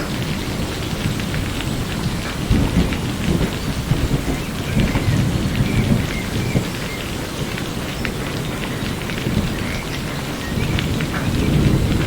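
Steady rain falling, with scattered drops and a low rumble of thunder underneath that swells and fades, louder a few seconds in and again near the end.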